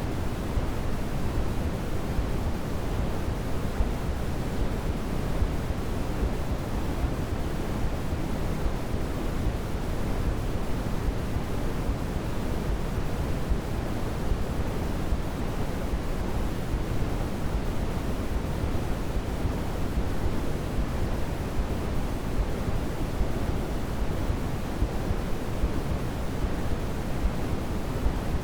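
Steady white-noise sleep sound, an even, unchanging hiss weighted toward the low end, so it sounds deeper than pure white noise, close to pink noise.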